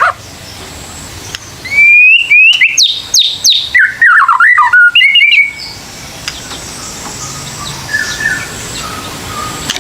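White-rumped shama (murai batu) singing: starting about two seconds in, a burst of loud, sliding whistled phrases mixed with sharp clicking notes and a quick jumble of lower warbles, lasting about three and a half seconds. Then only a few faint, scattered notes follow.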